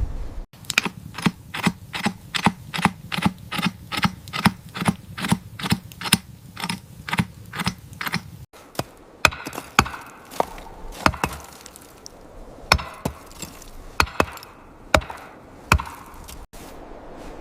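A rapid, even run of sharp knocks, about three a second, for some eight seconds. After an abrupt cut it changes to sparser, irregular sharp cracks and clicks.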